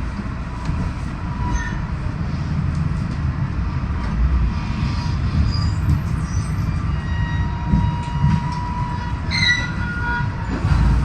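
New Jersey Transit commuter train running on the rails, with a steady low rumble and thin, high wheel squeals coming and going, the clearest about nine seconds in.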